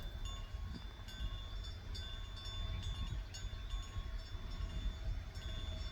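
Wind rumbling on the microphone outdoors, with a faint, steady high-pitched tone above it.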